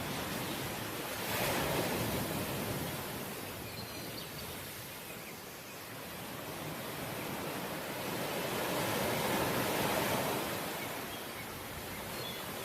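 Ocean waves washing on the shore: a steady rush of surf that swells twice, sharply about a second and a half in and then more slowly, building to a peak near the end.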